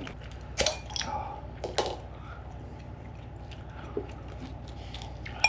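A person chewing pizza, with a few short clicks and knocks from handling the pizza box and a bottle, over a steady low hum.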